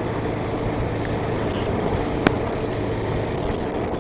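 Steady road and wind noise of a motorcycle being ridden, heard from the rider's microphone, with a single sharp click a little over two seconds in.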